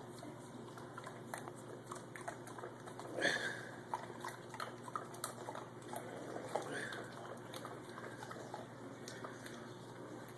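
Dog licking yogurt off a spoon: faint, irregular wet lapping and lip-smacking clicks, with one louder sound about three seconds in.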